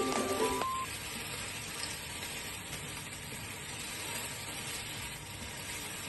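Sliced vegetables (onion, bell peppers, carrot, green beans) sizzling steadily as they stir-fry in a nonstick frying pan. A few notes of mallet-instrument background music sound at the start and cut off just under a second in.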